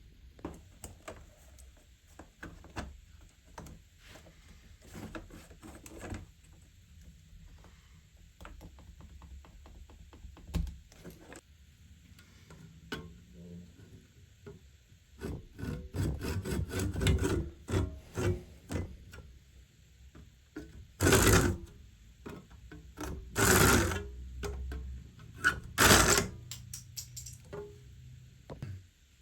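A small hand saw cutting through a model railway platform edging strip, in irregular short strokes that pick up into a fast run of sawing partway through, with three louder scraping bursts near the end.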